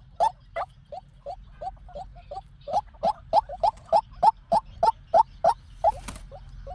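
White-breasted waterhen calling, a long run of short, slightly rising notes repeated about three to four times a second, fading for a moment about a second in and then growing louder again. A brief hiss comes near the end.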